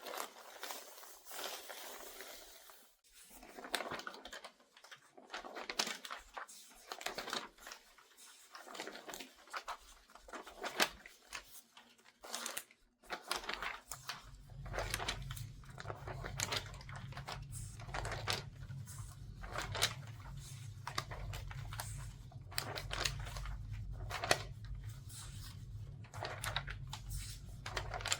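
Newspaper pages being turned quickly, rustling and crinkling in rapid, irregular swishes. A steady low rumble joins underneath about halfway through.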